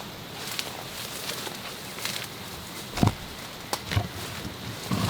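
Footsteps through jungle undergrowth, with three heavier steps in the second half, over a steady background of insects.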